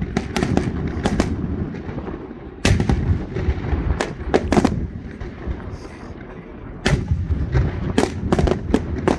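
Aerial fireworks shells bursting in a display: a rapid string of sharp bangs at the start, then single and grouped bangs every second or so, over a continuous low rumble of echoing reports.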